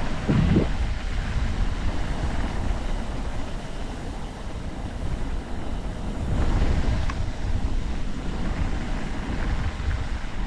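Wind buffeting the microphone of a moving e-bike's camera: a steady low rumble that swells in gusts, strongest just after the start and again about two-thirds of the way through.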